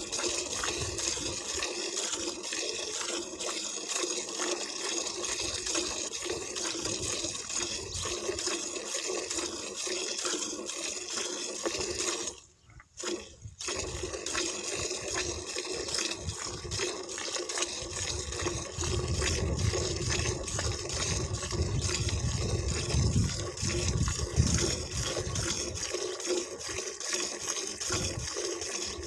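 Liquid streaming and splashing steadily into a container or onto water, broken by a brief gap about thirteen seconds in.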